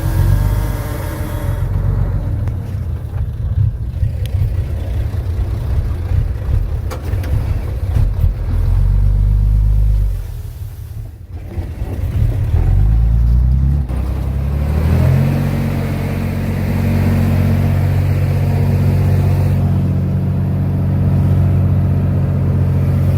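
Komatsu D31P bulldozer's diesel engine working under load; it drops back briefly about ten seconds in, then revs up and holds a steady higher speed.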